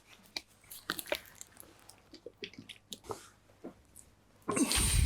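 Scattered faint clicks and small handling noises, then a louder brief rushing noise about four and a half seconds in.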